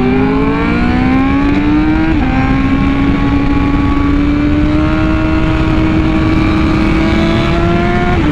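Honda Fireblade RR-R SP's inline-four through an SC Project exhaust, pulling hard under acceleration with its pitch climbing. A quick-shifter upshift about two seconds in drops the pitch briefly before it climbs slowly again, and a second upshift comes right at the end.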